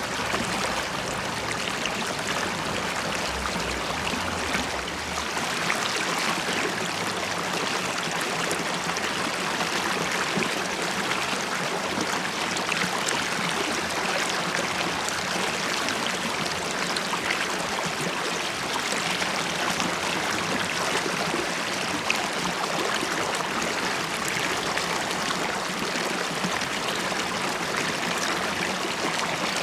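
A river stream flowing and burbling steadily, with a dense trickling and bubbling texture.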